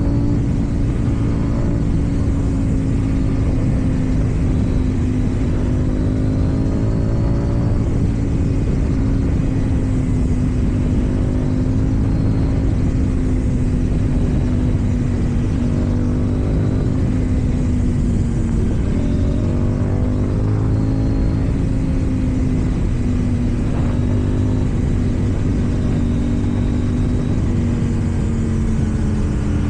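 KTM Duke 790's parallel-twin engine through an Akrapovic exhaust, running at a fairly steady speed with small rises and falls in revs.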